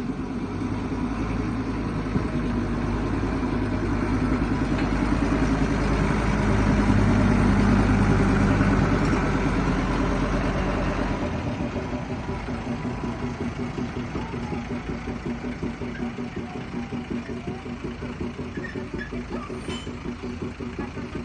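Small forest-railway diesel locomotive running with its train, the engine's steady drone and a fast even pulsing growing louder to a peak and then easing off. A deep low hum cuts off about halfway through while the lighter pulsing running sound carries on.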